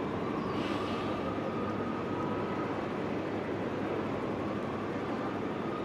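City street ambience while traffic is held up: a steady low rumble with a faint, wavering high tone running through it, and a brief hiss with a small chirp about half a second in.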